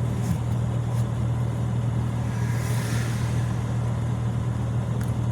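Steady low hum of a car's engine and road noise heard from inside the cabin while driving, with a soft rushing swell about halfway through.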